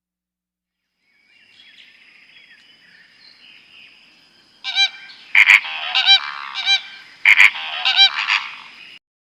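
A bird calling: faint high chatter, then from about halfway in a run of loud, short, pitched calls in quick clusters that stop just before the end.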